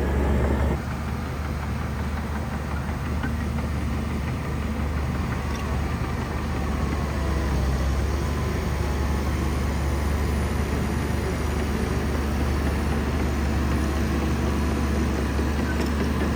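Diesel engine of a large Shantui bulldozer running steadily with a deep drone, dipping slightly in level about a second in.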